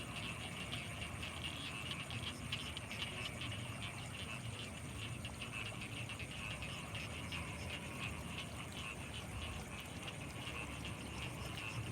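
Night chorus of frogs and insects in rice fields: dense, fast, rapid calling with a steady high trill above it and a faint low rumble underneath.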